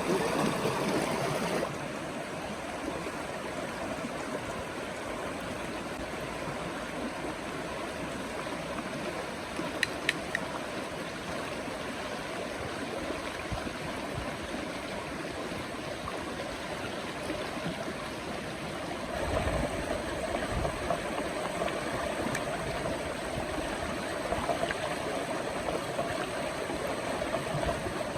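River water flowing steadily. Two sharp clicks come about ten seconds in, and the flow grows louder, with more low rumble, in the last third.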